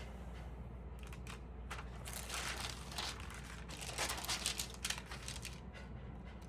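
Stamp album pages being handled and turned, with irregular crinkling and rustling of the paper and plastic sleeves, busiest about two and four seconds in.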